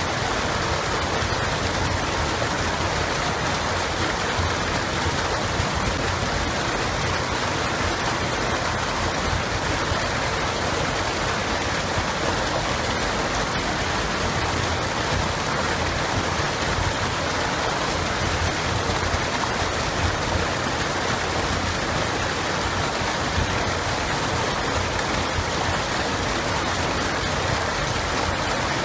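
Running water of a river or stream flowing steadily, an even rushing noise with no change in level.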